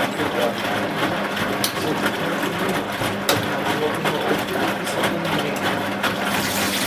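Zanussi Z913 washing machine running with a steady motor hum and tumbling noise, with a couple of sharp clicks. Near the end a smooth rush of water begins, typical of the machine filling with water.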